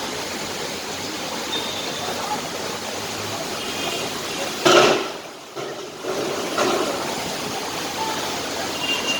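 Steady rushing of water, such as floodwater or heavy monsoon rain. About halfway through there is a brief loud burst, then the sound drops away for about a second and comes back.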